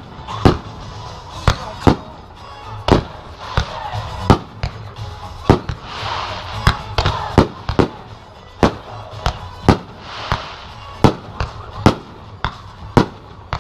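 Aerial fireworks shells bursting in quick, irregular succession, about two or three sharp bangs a second. The bangs are joined twice, about six and ten seconds in, by a swell of crackle.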